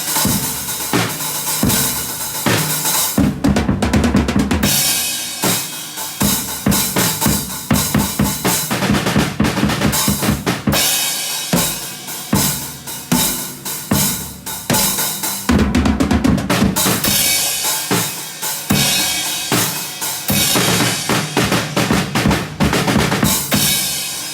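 A drum kit played hard: rapid drum hits, some in quick rolls, under a constant wash of cymbal crashes, with heavier low drum pounding in a couple of stretches.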